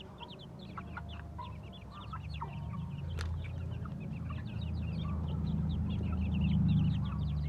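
Chickens clucking, with many quick high peeps throughout, over a low rumble that grows louder in the second half.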